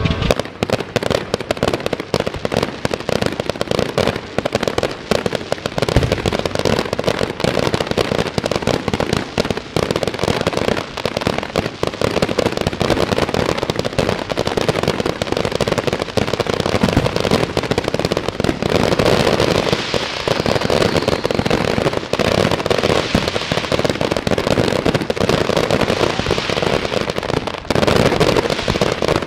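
Fireworks going off in a dense, continuous string of cracks and pops, many a second and overlapping. The barrage thickens about two-thirds of the way through and again near the end.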